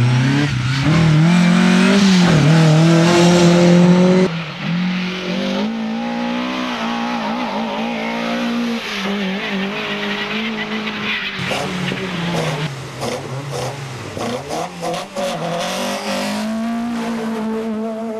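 Racing car engine revving hard, its pitch climbing and dropping through gear changes. The sound changes abruptly about four seconds in and again about eleven seconds in, as a different car or spot takes over.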